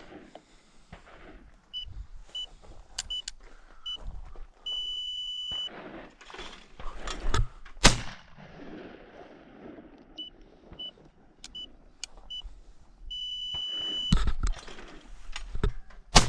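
Electronic beeping from a sporting-clays target release: five short beeps, then a steady tone about a second long. This happens twice. Each run is followed by a sharp shot from a 16-gauge Browning Citori over-under shotgun, about two seconds after the first tone and again near the end.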